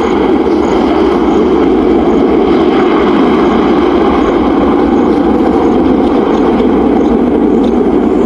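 Jet airliner engines running, a loud, steady noise that neither rises nor falls.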